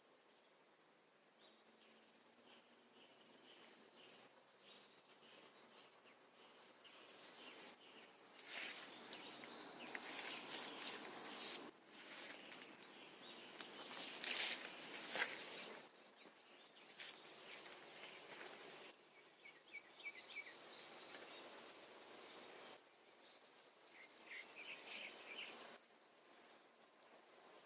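Faint birdsong outdoors: short series of high chirps about two-thirds of the way in and again near the end. Louder bursts of rustling noise fill the middle of the stretch.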